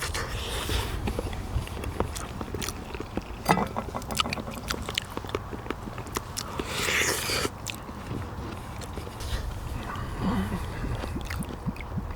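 Person eating pork bone soup (gamjatang): chewing and gnawing meat off the pork bones, with scattered sharp clicks and smacks.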